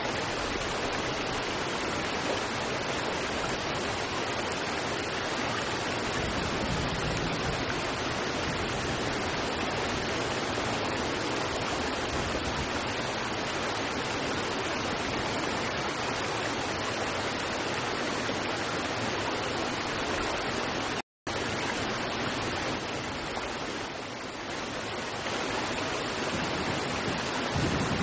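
River water rushing steadily over rocks, an even, continuous hiss of flowing water. The sound cuts out completely for a split second about three quarters of the way through, then resumes.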